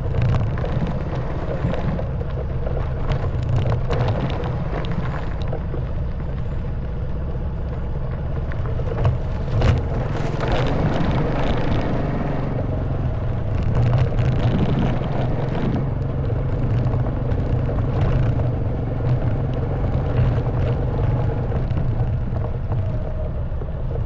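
Honda Wave 110cc single-cylinder four-stroke motorbike engine running steadily, with rattles and knocks from riding over a rough stone track. A couple of sharper jolts come about nine to ten seconds in.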